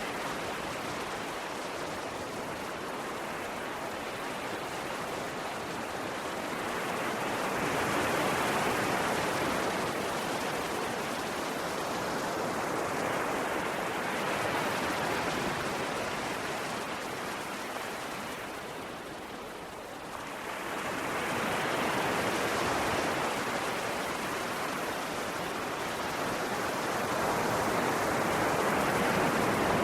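Ocean waves washing onto a shore: a steady rush of surf that swells and eases every six to eight seconds, with a brief lull about twenty seconds in.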